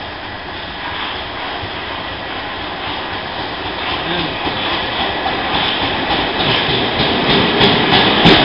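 Metropolitan line Underground train approaching along the platform, its rumble and rail noise growing steadily louder, with a few sharp clicks near the end as it draws close.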